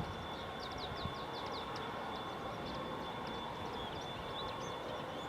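Steady distant jet aircraft engine noise with a thin, high, steady whine, while small birds chirp quickly and repeatedly over it.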